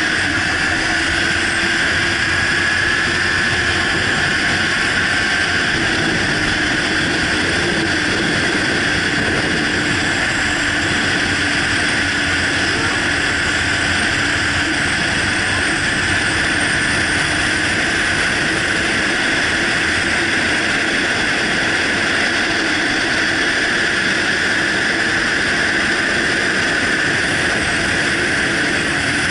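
Riding a motorcycle at a steady pace: a loud, unbroken rush of wind over the microphone with the engine's drone underneath.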